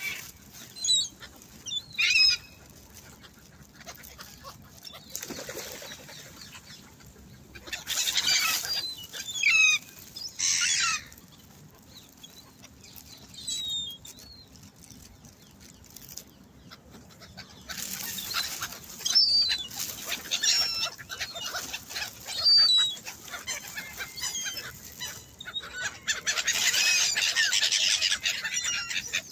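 A flock of gulls calling in many short squealing cries, with several louder bursts of wing flapping and squabbling, the longest near the end.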